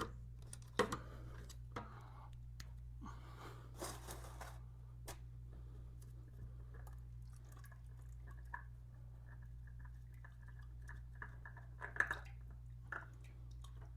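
Faint scattered clicks, knocks and rustles of hands and a tool working the oil filter off a motorcycle engine, over a steady low hum.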